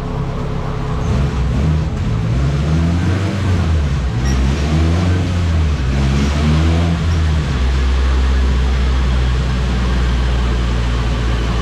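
Turbocharged K20-swapped Honda Civic hatchback running on a chassis dyno. The engine note shifts in pitch through the first several seconds, then holds a steady drone from about two-thirds of the way in.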